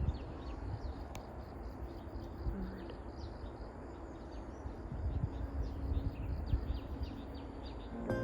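Small birds chirping, many short high calls coming several times a second, over a low rumbling noise.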